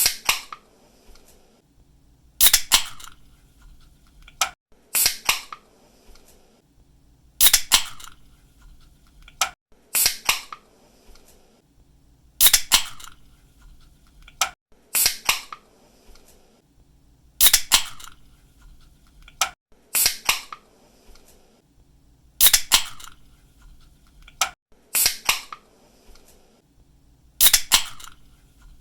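Aluminium drink cans having their pull tabs cracked open, each a sharp crack followed by a brief hiss of escaping carbonation, repeated roughly every two to two and a half seconds.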